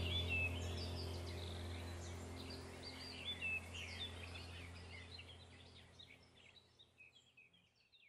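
Songbirds chirping in quick, varied short calls over a low steady hum, the whole sound fading out gradually until only a few faint chirps are left by the end.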